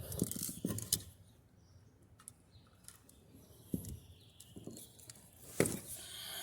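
Scattered clicks and knocks of parts being handled as a replacement washing-machine motor is set in place, with two sharper knocks, one near four seconds in and one near five and a half.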